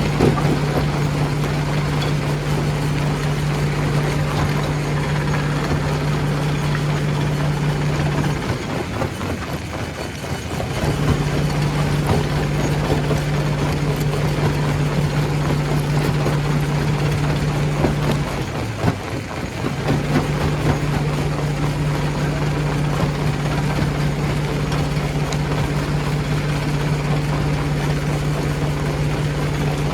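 Stone crusher machinery running: a steady low hum over a dense, noisy rumble. The hum briefly drops away twice, about a third and two-thirds of the way through, while the rumble goes on.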